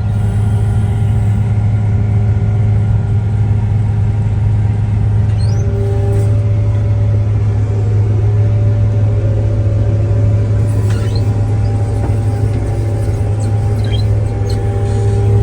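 Tractor engine running steadily, a deep constant hum with fainter steady higher tones.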